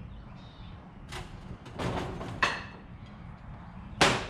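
Steel bars knocking and clanking as they are bent and handled, a few separate knocks with the loudest, sharpest clank near the end.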